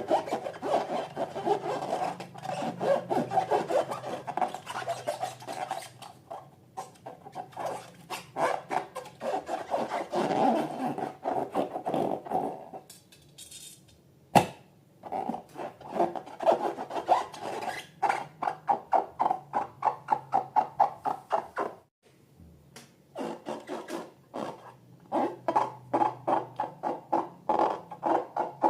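Slime being worked by hand: rapid rubbing, squishing strokes in rhythmic bursts of several a second, pausing briefly twice, with one sharp click about halfway through.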